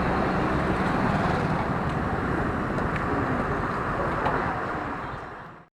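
Road traffic noise heard from a motorcycle riding through city streets: a steady mix of engine and road noise that fades out about five seconds in.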